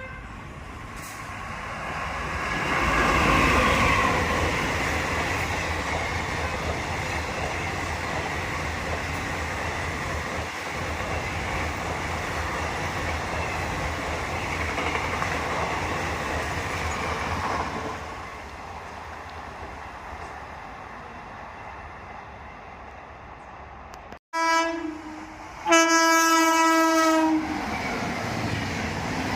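Express train passing at speed: a steady rush of wheel and rail noise that builds over the first few seconds and eases off about two-thirds of the way in. Near the end, after a sudden break, a train horn sounds twice, a short blast and then a longer one, with train noise going on behind it.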